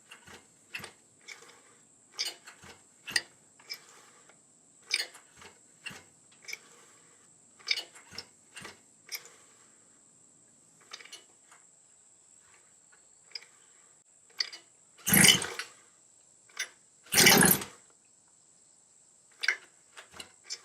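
Chung Yang 29cc two-stroke engine of a 1/5-scale Losi 5ive-T being cranked with its pull starter, choke on: two hard pulls about two seconds apart near the end, not yet firing, after a string of light clicks and knocks of handling.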